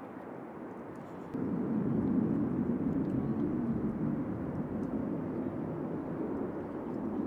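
Steady rumble of jet aircraft engines, jumping suddenly louder about a second and a half in.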